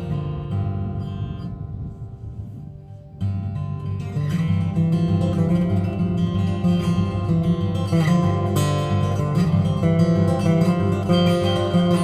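Acoustic guitar: notes ringing out and fading, then about three seconds in the instrumental introduction starts, played in a steady rhythm.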